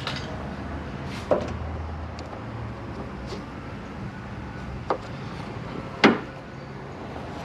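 A few sharp knocks and clicks from tools being handled, the loudest about six seconds in, over a steady low hum.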